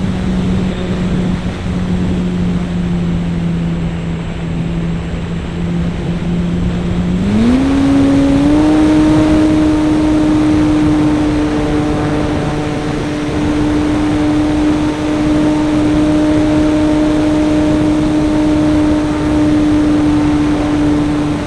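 Model airplane's .21 glow engine running steadily, then opened up about seven seconds in, its note gliding up to a higher, steady pitch, with a constant rush of air over the on-board microphone.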